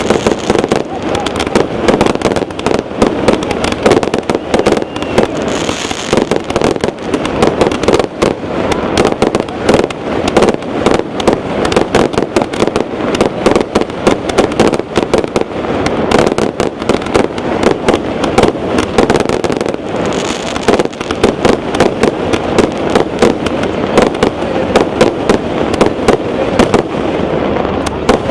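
Aerial fireworks shells bursting high overhead in quick succession: many sharp bangs a second, with crackling stars, keeping on without a break.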